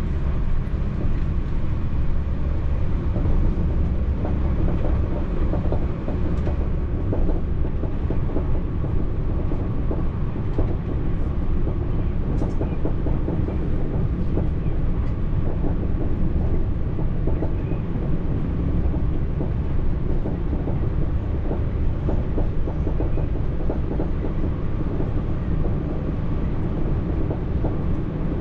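French TER regional train running along the line: a steady low rumble of wheels on rail with a faint steady tone above it.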